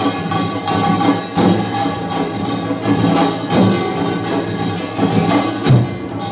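Korean nongak farmers' band playing: gongs and drums struck in a driving rhythm, with metallic ringing over repeated beats.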